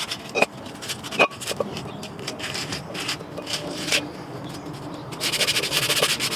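Hand tools working on the van's front brake parts: a few sharp metal knocks, then scraping and rubbing, and a fast run of clicks starting about five seconds in.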